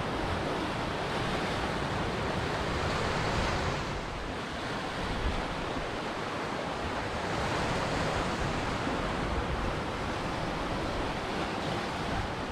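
Ocean waves breaking on a shore in a steady wash of surf, swelling and easing, with wind on the microphone.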